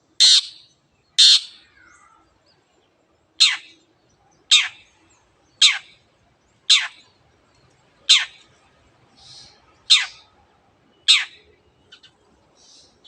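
Long-tailed shrike (cendet) giving its harsh call over and over: about nine short, sharply falling notes, roughly one a second, with a brief pause after the first two and a few faint softer notes in between.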